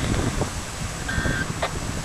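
Steady low rumbling noise, with a short high electronic beep a little past a second in, followed by a brief click.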